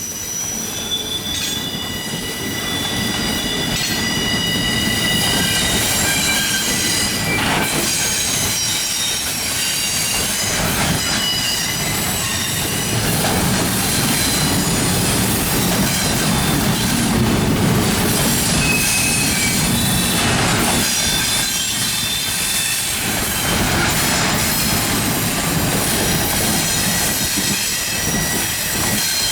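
Norfolk Southern freight train cars rolling past: a steady low rumble with high, shifting wheel-flange squeals, and an occasional clack of wheels over rail joints.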